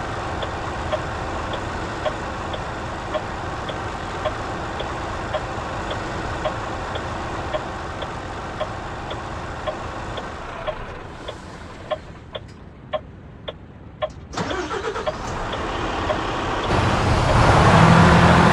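Renault truck engine running, with a regular tick about twice a second over it. The engine sound drops away about ten seconds in, then picks up again a few seconds later and grows louder toward the end.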